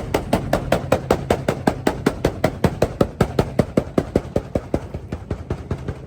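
Subaru WRX engine that has just blown up, knocking sharply and evenly about five times a second over a low hum, the knocks slowing slightly near the end.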